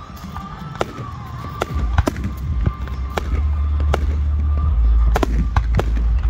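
Aerial fireworks shells bursting: a series of sharp bangs, about ten in all, over a deep rumble that swells from about two seconds in.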